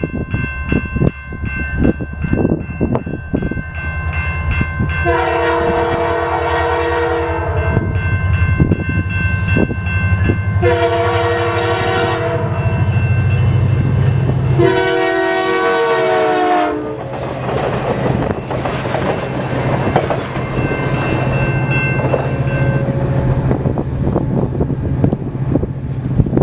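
Canadian Pacific freight train passing at speed, its locomotive horn sounded in three long blasts, the last one dropping in pitch as the locomotive goes by. Wheels clatter over the rail joints, with a steady low rumble before and after the blasts.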